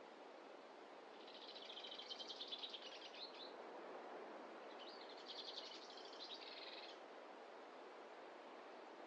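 A bird singing twice, each song a rapid trill of repeated high notes lasting about two seconds, the first starting about a second in and the second about five seconds in, over a faint steady hiss of outdoor background noise.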